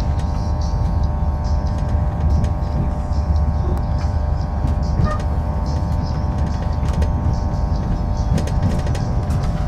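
Running noise inside a moving passenger train: a steady low rumble with a constant whine and scattered light clicks.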